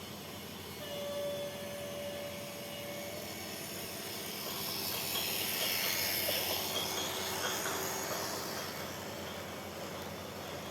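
A train passing, its noise swelling to a peak about six seconds in and then easing off. A brief steady tone sounds about a second in.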